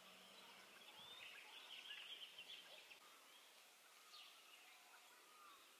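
Faint birdsong: scattered chirps and twittering, busiest in the first three seconds, then a few softer calls.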